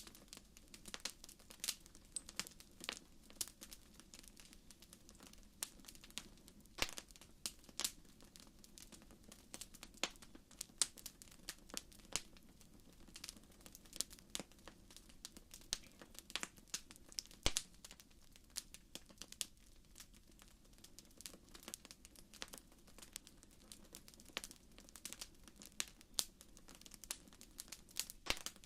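Wood fire crackling in a fireplace: irregular sharp pops and snaps, several a second at times, over a soft steady hiss.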